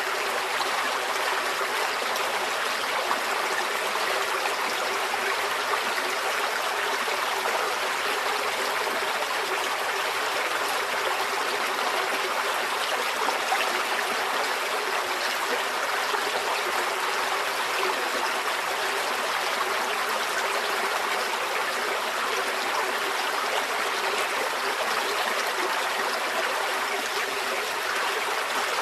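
Small forest stream flowing over stones, a steady, even babble and trickle of water.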